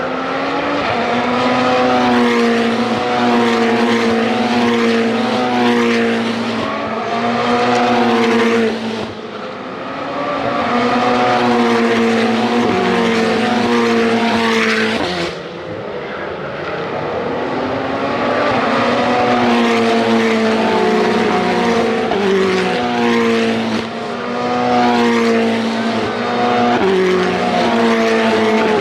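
Ferrari Challenge race cars at full throttle, the engine notes climbing and stepping through quick gear changes again and again. The sound dips briefly three times.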